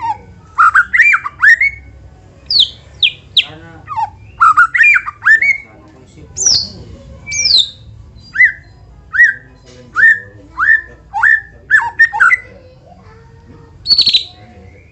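White-rumped shama (murai batu) singing loud whistled phrases. Sharp notes sweep down from high, mixed with shorter upward-slurred whistles lower in pitch, repeated in quick runs with short pauses between.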